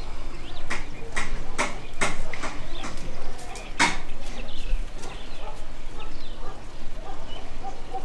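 Birds calling: a run of short, sharp calls about two a second in the first half, the loudest at about four seconds, then fainter calls.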